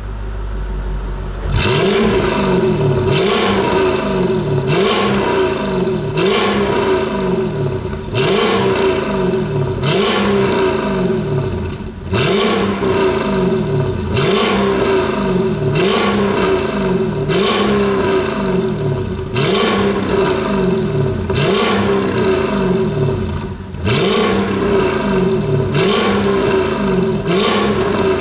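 Mercedes E55 AMG supercharged 5.4-litre V8 revved again and again through an aftermarket exhaust: a short blip of throttle, then the revs falling back, repeating about every two seconds, with a crack from the exhaust at each blip.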